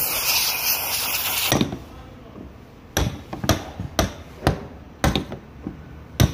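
Hammer strikes tapping the fuel pump's locking ring on a fuel tank around to loosen it, sharp knocks about two a second starting about three seconds in. It opens with a loud hiss lasting about a second and a half.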